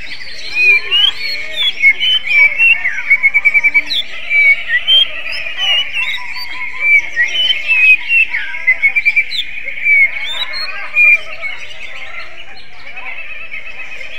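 Green leafbird (cucak ijo) singing a fast, varied song of sharp chirps, rapid trills and short whistles in the style of an Oriental magpie-robin. The loud phrases come thick and fast, then ease off a few seconds before the end.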